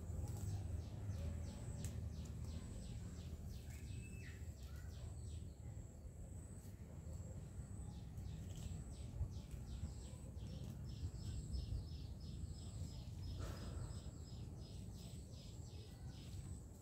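Birds chirping in a quick, repeating series of short high chirps, with a thin steady high-pitched whine, over a low steady rumble.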